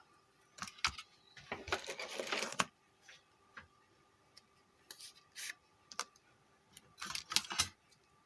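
Scattered small clicks and taps with a short scraping rustle about two seconds in: tools and metal parts being handled on a workbench while the heat sink is fitted to a car stereo's new amplifier IC.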